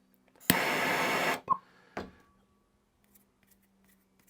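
A handheld gas torch is lit with a sharp click and hisses loudly for just under a second as it burns and seals the cut end of a new pull cord. Two smaller clicks follow.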